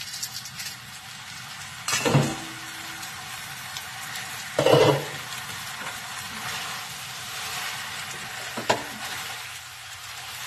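Stir-fry of glass noodles and bean sprouts sizzling steadily in a hot frying pan, with three louder short bursts: about two seconds in, near the middle, and a sharper one near the end as the pan is stirred.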